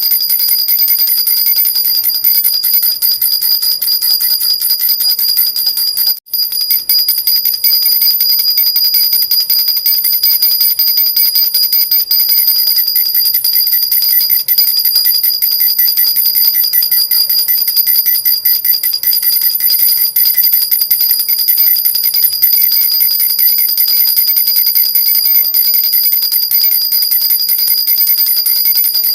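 A metal jhunjhuna baby rattle shaken steadily, making a continuous bright, high jingling. It stops for a moment about six seconds in, then carries on.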